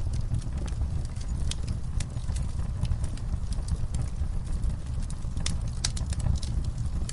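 Wood fire burning with a steady low rumble of flame and irregular sharp crackles and pops, a few louder snaps about a second and a half in and again near the six-second mark.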